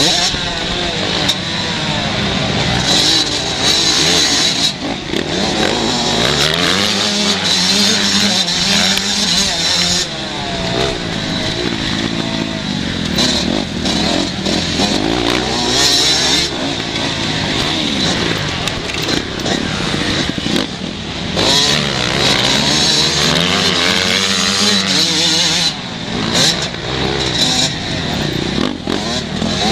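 Several 125cc two-stroke motocross bikes racing, their engines revving up and down in many overlapping rises and falls.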